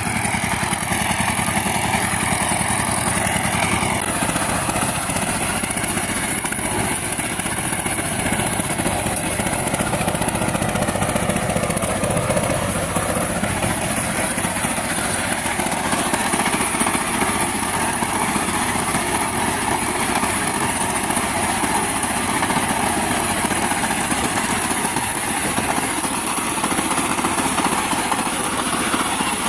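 Power tiller engine running steadily while ploughing a field.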